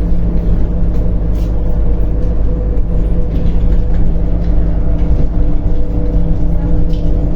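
MAZ-105.065 city bus driving between stops, heard from inside the cabin: its engine runs steadily with a low rumble and a few held tones.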